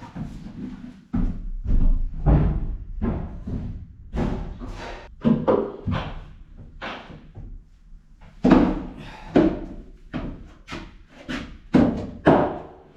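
Irregular knocks and thumps, roughly one or two a second, each with a short ring after it, from tools and timber being handled on a wooden boat floor.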